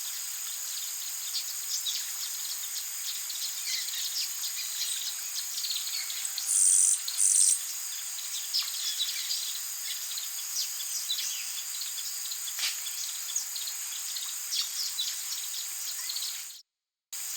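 Tropical rainforest ambience: a steady high chorus of insects with many small bird chirps scattered through it. Two loud, short, high buzzes come about six and seven seconds in. The sound cuts off suddenly near the end and returns briefly.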